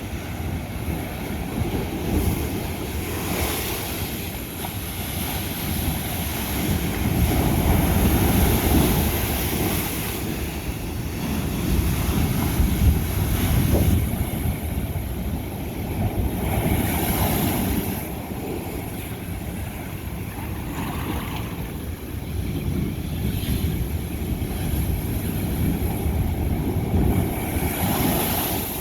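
Ocean waves breaking on a lava-rock shore, a steady rumbling surf that swells with each wave about four times.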